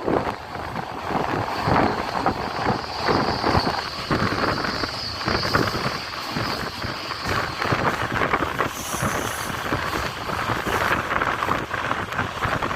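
Passenger train running on the line: wheels clattering over the rails amid rushing wind, with a thin high whine held through roughly the first half.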